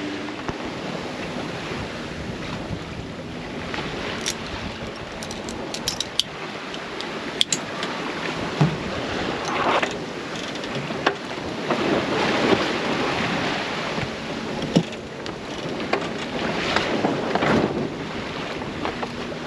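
Sailboat under sail in a fresh breeze: waves and water rushing along the hull, rising and falling in surges, with wind noise and a few sharp ticks.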